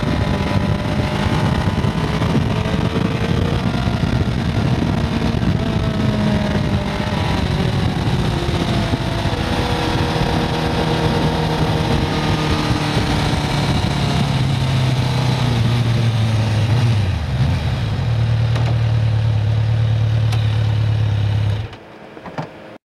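1995 Kawasaki Concours motorcycle's inline-four engine heard from the rider's seat, pulling up through hairpin bends with its pitch rising and falling. It settles to a steady low idle, then falls silent near the end.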